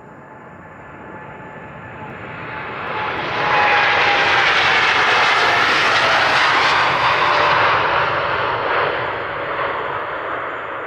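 Boeing 787-10 airliner's jet engines at take-off thrust as it passes: the roar swells to a loud peak a few seconds in, holds for about four seconds, then fades, while a whine falls in pitch.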